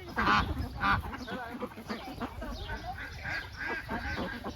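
Several ducks quacking and calling, with two loud raspy quacks in the first second followed by a run of shorter calls.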